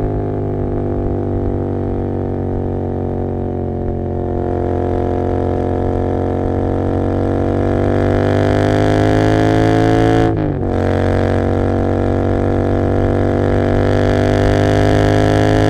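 Royal Enfield Continental GT 650's 648 cc parallel-twin engine running through an Emgo cafe muffler with its dB killer removed, a deep steady drone under way. Engine speed eases slightly at first, then climbs steadily, drops sharply at a gear change about ten seconds in, and climbs again.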